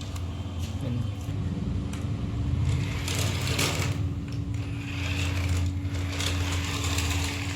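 Small electric motor and plastic gears of a toy remote-control car whirring steadily, with rougher scraping surges about three seconds in and again past the middle.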